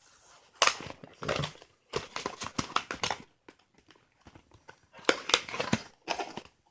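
Packaging of a trading-card box being pried and pulled at by hand: irregular bursts of crinkling and scraping with short pauses, as the box resists opening.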